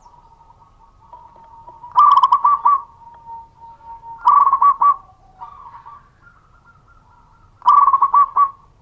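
Zebra dove (perkutut) cooing: three short phrases of quick, rolling staccato coos, each under a second long and a couple of seconds apart, over a faint steady tone.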